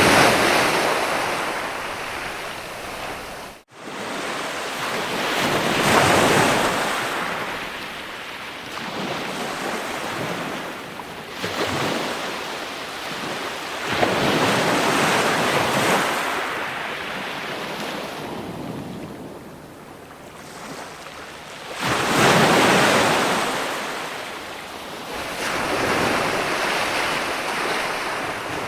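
Ocean waves breaking, a steady wash of surf rising and falling in slow surges, one every six to eight seconds. The sound cuts out for an instant about four seconds in.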